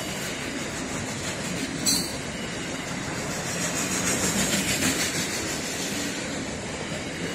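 Container freight train passing close by: the steady rumble and rattle of its wagons on the rails, with a brief high wheel squeal about two seconds in.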